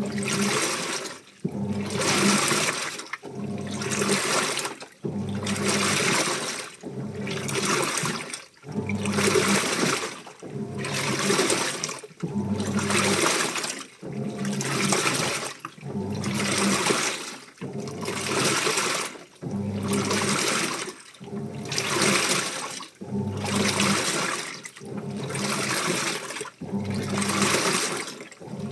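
Washing machine in its wash cycle: the motor hums as the drum turns and churns wet laundry through water, one sloshing swish about every 1.7 seconds.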